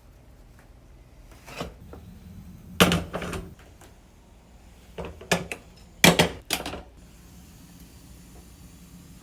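Cookware and utensils being handled and set down: a few irregular clatters and knocks, the loudest about three and six seconds in.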